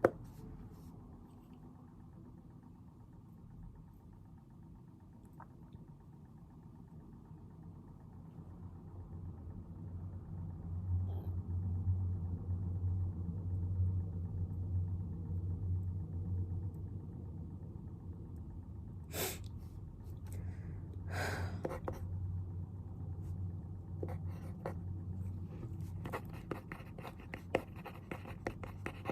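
A low rumble swells over several seconds, holds, then eases off without stopping. Two sharp knocks come near the middle, and toward the end a pen scratches across paper in quick little strokes.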